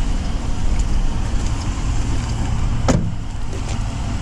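2021 Dodge Durango R/T's 5.7-litre Hemi V8 idling with a steady low rumble, and one sharp clunk about three seconds in.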